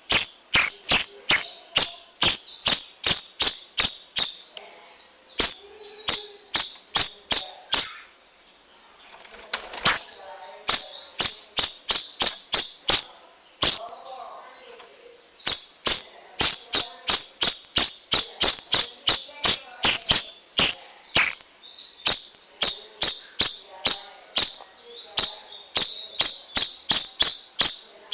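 A caged songbird singing a long rolling run of sharp, high chirps, about three to four a second, pausing briefly about a third of the way in and again about halfway.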